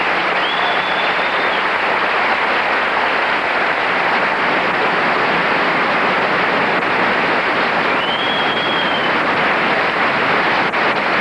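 Large audience applauding steadily after a song, with a high whistle rising and then held for about a second, heard twice.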